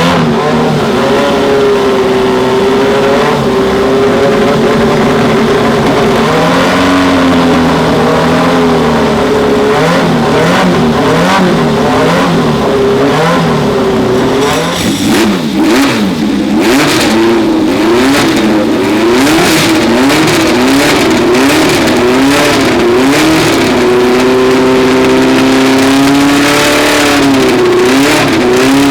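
Racing car engine running at high revs, holding a steady pitch at first. In the middle its revs rise and fall quickly over and over, with short sharp pops, then it settles to a steady pitch again near the end.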